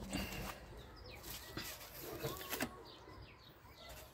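Birds chirping faintly in short rising and falling calls, with a few light knocks in between.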